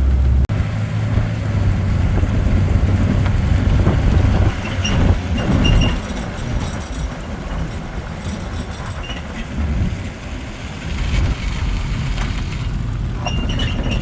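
Pickup truck carrying a camper being driven, a steady low rumble of engine and road noise, with a few clicks and rattles around the middle.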